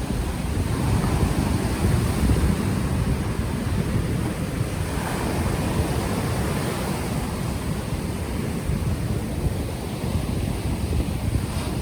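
Ocean waves washing onto the shore, with wind buffeting an unshielded microphone as a heavy, fluttering low rumble.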